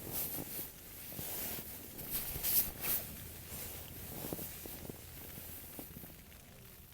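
Rustling and a series of light clicks and knocks as camping gear is handled to get dinner going, loudest about two to three seconds in and dying away toward the end.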